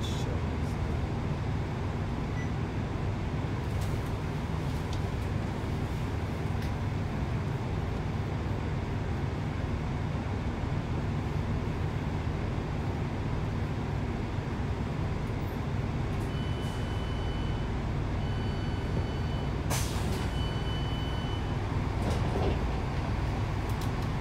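Steady low rumble of a Class 165 Networker Turbo diesel multiple unit running, heard from inside the carriage, with a few sharp clicks. About two-thirds of the way in, a faint high tone sounds in short broken stretches for several seconds.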